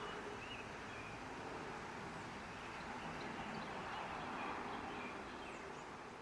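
Faint outdoor ambience: a steady hiss with scattered small bird chirps.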